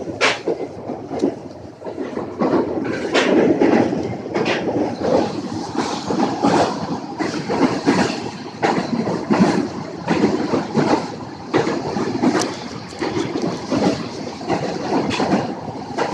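Train running along the track with a steady rumble, its wheels clicking repeatedly over the rail joints.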